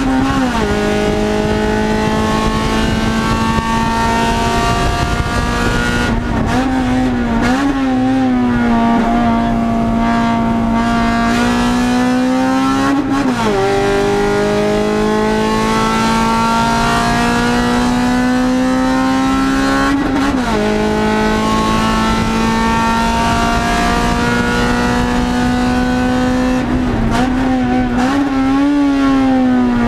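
Race car's engine heard from inside its stripped, roll-caged cabin while lapping a circuit. The engine note climbs steadily as the car accelerates and drops sharply at each gear change, about five times, with a few quick wavers in pitch between the climbs.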